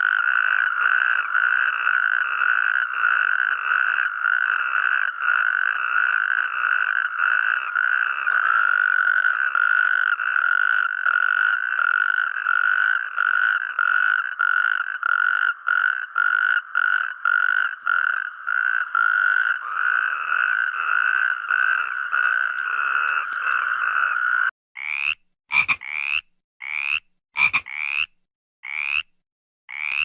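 A dense chorus of many frogs calling together, a steady pulsing drone. About 24 seconds in, it changes to separate short rising frog calls, roughly one a second, with a few sharp clicks between them.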